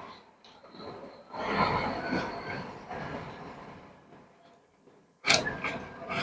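Truck rolling slowly, its cab and trailer rumbling and rattling. The noise swells about a second in and then fades, and a sharp clatter comes near the end.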